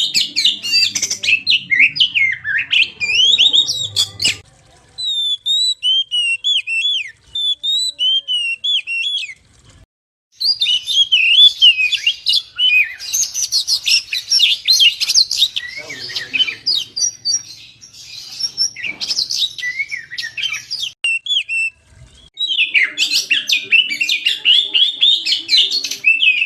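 Oriental magpie-robin (kacer) singing a loud, fast, varied song of rapid chirps and whistles. The song comes in long bursts, with short breaks about four, ten and twenty-two seconds in.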